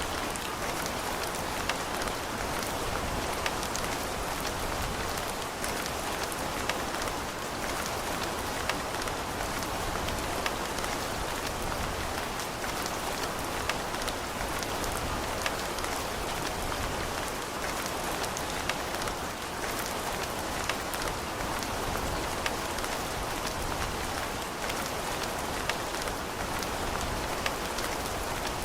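Steady rain falling on a surface, an even hiss with scattered sharp drop taps throughout.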